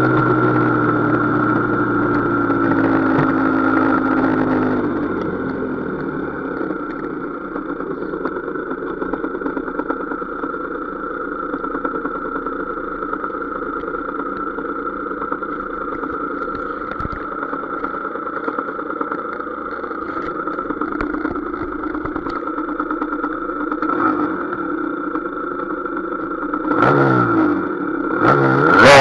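Husqvarna SM 125 two-stroke single-cylinder engine: the revs drop away over the first five seconds, then it runs low and steady, rising briefly a couple of seconds before the end as it begins to rev hard.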